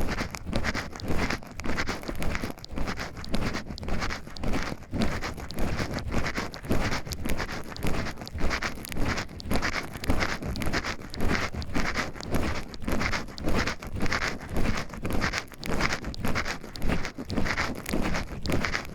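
Footsteps of a person walking on a forest trail, an even pace of about two steps a second.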